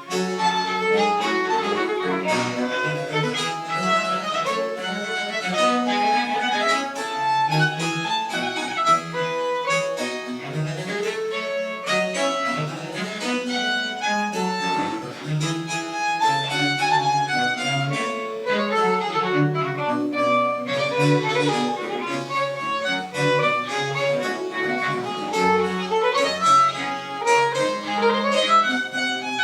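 Baroque chamber ensemble playing French Baroque music, a violin carrying a busy run of quick notes over a steady bass line.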